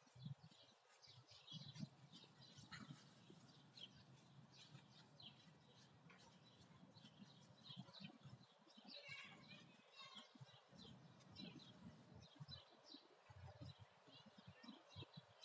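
Faint birdsong in park trees: many short, high chirps and calls throughout, with a busier run of song about nine seconds in.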